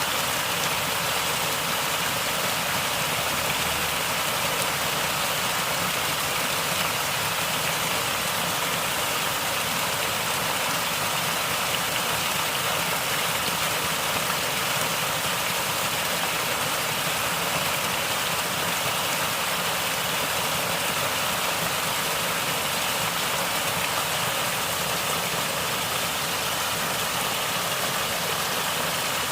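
Natural flowing water running steadily: an even rushing noise with no breaks or changes.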